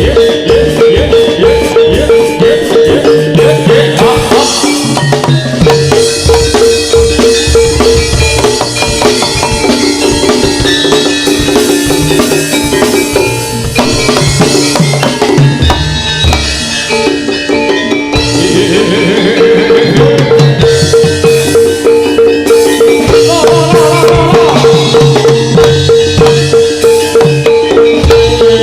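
Live Javanese horse-dance (jaranan) music: hand drums beat a driving rhythm under ringing metallophones, over a long held high note that breaks off briefly a few times.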